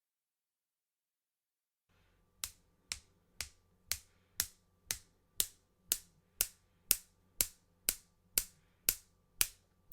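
Silence, then a steady, sharp ticking starting about two and a half seconds in, about two ticks a second, each tick crisp with a short ring-out.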